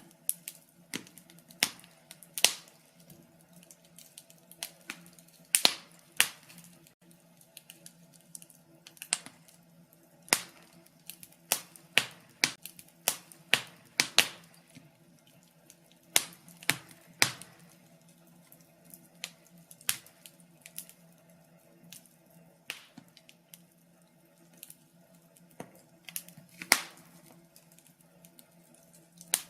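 Wood fire crackling in a fireplace: irregular sharp pops and snaps, several a second, some much louder than others, over a faint steady hum.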